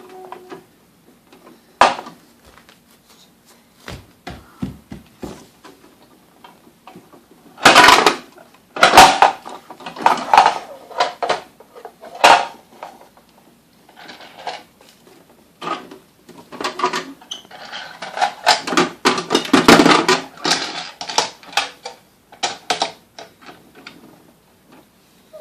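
Irregular clicks, knocks and rattling of hard objects being handled, with louder bursts of clatter about a third of the way in and again about three quarters of the way through.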